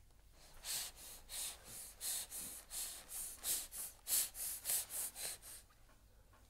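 A 9-month-old baby's rapid, excited breathy huffs, about three a second, stopping near the end, with no voice in them.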